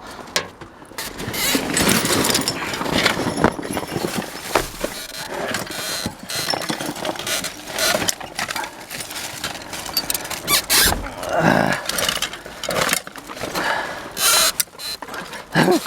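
Scrap metal, wire and wood being shifted and dragged around inside a dumpster: irregular clattering, scraping and knocks.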